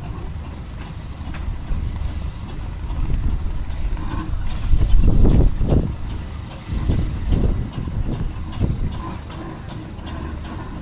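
Steam engine running past with a low rumble and irregular heavier chuffs, loudest about halfway through.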